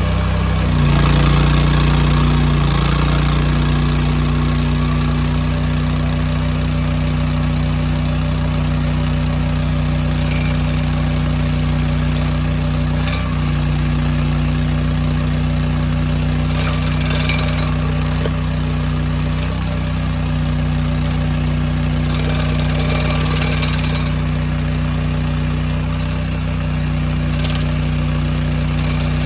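Mini skid steer engine and its hydraulic stump grinder running steadily at speed, settling to an even pitch a couple of seconds in, with a few short bursts of harsher noise.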